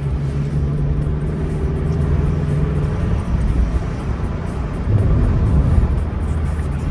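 Car driving along a city road, heard from inside: a steady low drone of engine and tyre noise, rising a little about five seconds in.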